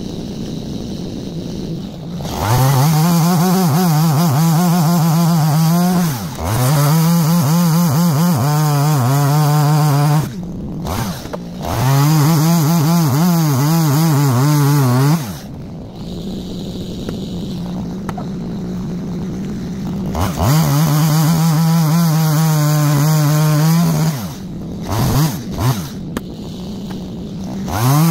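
Chainsaw revving up to full throttle four times, holding each run for three to four seconds as it cuts through logs, and falling back to a lower running speed between cuts.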